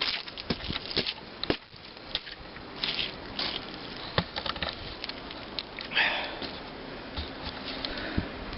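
Footsteps crunching through deep fresh snow: irregular short crunches, with a brief louder rustle about six seconds in.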